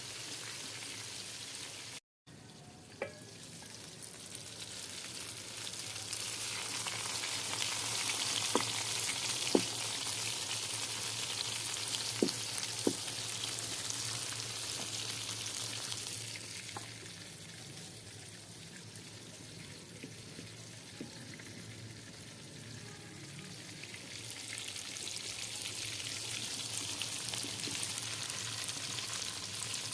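Food sizzling in hot oil in a cooking pot, louder for several seconds at a time and then easing. A few sharp knocks of a stirring spoon against the pot come in the first half.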